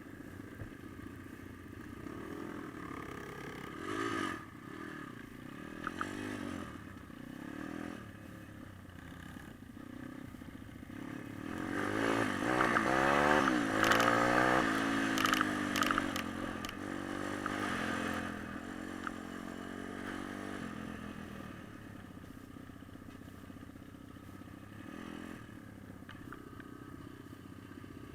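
Pit bike engines revving and running, the pitch rising and falling repeatedly, loudest about halfway through, then settling to a lower steady running.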